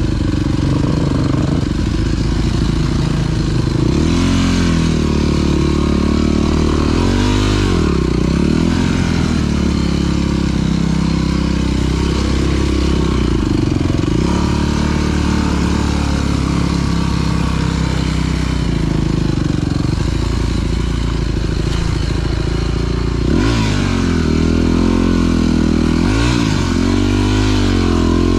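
Dirt bike engine running under way, its pitch rising and falling repeatedly as the throttle is opened and closed, with clear revving swells several seconds in and again near the end.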